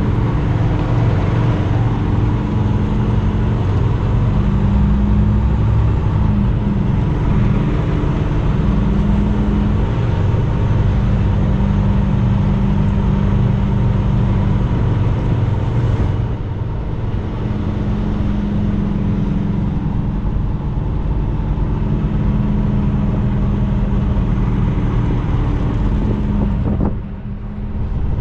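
Semi-truck engine and road noise while driving, a steady low drone that eases off about sixteen seconds in and dips briefly near the end.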